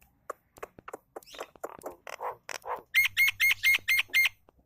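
Songbird chirping in short notes, then about three seconds in a quick run of six loud, clear repeated notes.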